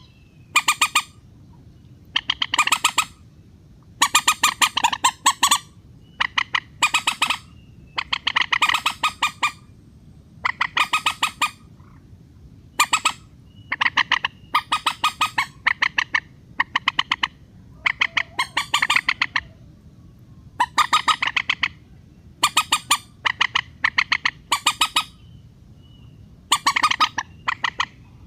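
Common moorhen (mandar batu) calls, a recorded lure call: repeated bursts of fast, sharp chattering notes, each burst about half a second to a second long, coming every one to two seconds with short pauses between.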